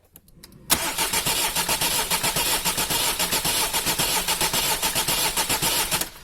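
Diesel engine turning over on its starter motor without firing, a steady even rhythm of compression strokes, starting about a second in and stopping just before the end. The cranking is meant to purge air from the fuel line of a freshly rebuilt Bosch common-rail injector, and diesel has not yet reached it.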